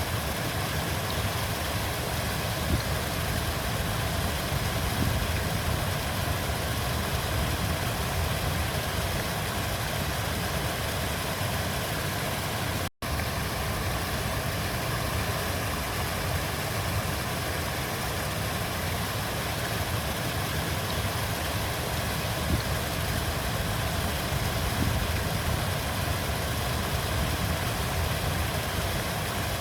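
Flowing river water, a steady rushing with a heavy low rumble. It cuts out for a split second about thirteen seconds in, then resumes unchanged.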